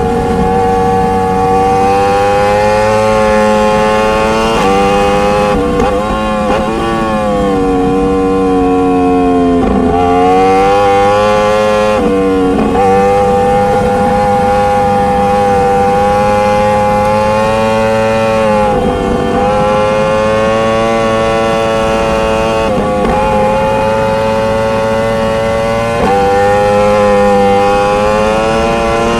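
Motorcycle engine running under way, its pitch rising and falling as the rider accelerates, eases off and changes gear several times.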